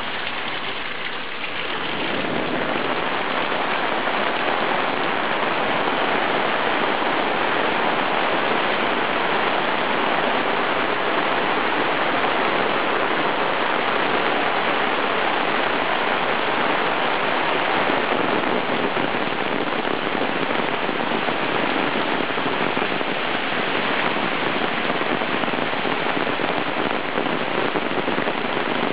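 Heavy rain falling steadily, a dense hiss that gets louder about two seconds in.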